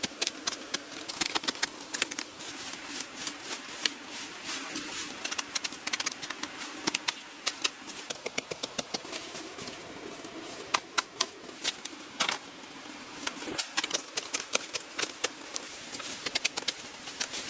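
Irregular sharp clicks and taps, some coming in quick runs, over a faint steady background hiss.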